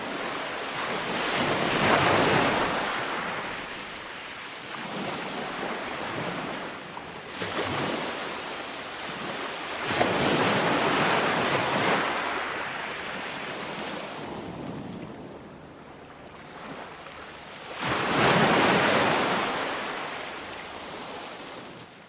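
Ocean waves breaking on a shore: three large surges about eight seconds apart, each swelling up and fading off, with a smaller one between the first two.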